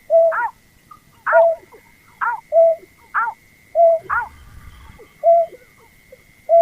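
Calls of the rice-field bird known locally as berkik or pekung, as used for luring. A short downward-sweeping note alternates with a short, steady lower note, repeating just under once a second. A faint steady high tone runs underneath.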